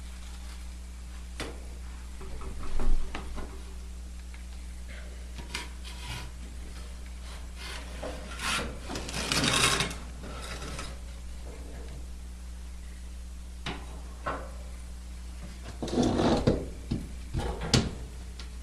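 Firewood being handled and shifted in a fireplace: wood scraping and knocking in several short bursts, over a steady low hum.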